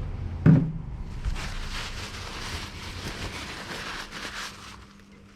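A short vocal sound about half a second in, then a few seconds of rubbing and rustling as the engine's oil dipstick is handled for a recheck of the level. The rustling fades out near the end.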